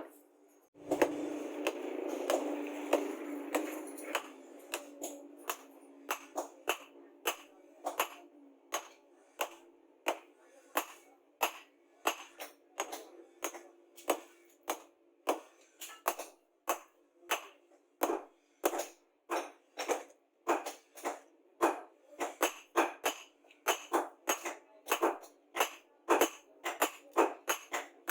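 Hammer striking metal again and again, sharp ringing blows at about one and a half a second that quicken to about two a second near the end. About a second in there is a longer rough scraping noise.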